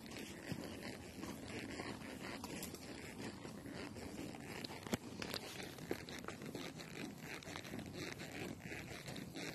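Faint steps crunching and scraping over rough ground while walking.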